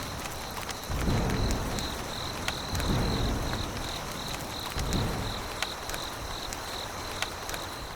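Insects chirping in a steady, high, pulsing trill, over low rumbling swells that come about every two seconds and a few faint ticks.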